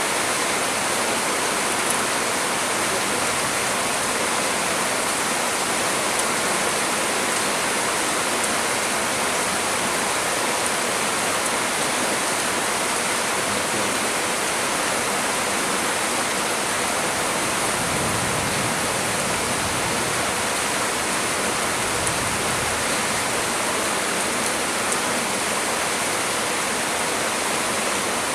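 Heavy rain falling steadily as a dense, even hiss. A couple of brief low gusts of wind come through about two-thirds of the way in.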